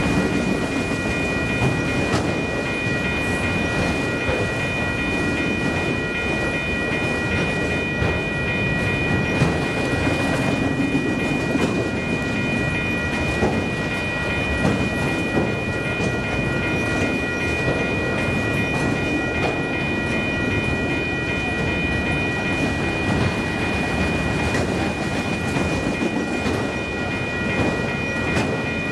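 Train rolling past, a steady rumble of wheels on rail with a thin, steady high whine in several pitches held throughout.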